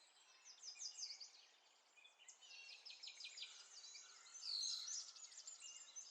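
Faint chirping and trilling of small birds, quick repeated high notes, with one louder sweeping call about four seconds in.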